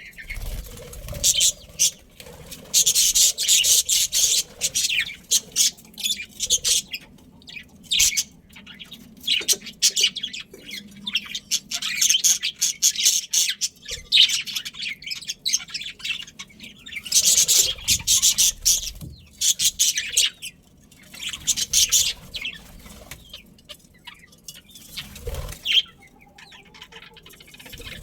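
Budgerigars chattering and warbling, with rapid high-pitched chirps coming in bursts and short pauses between them.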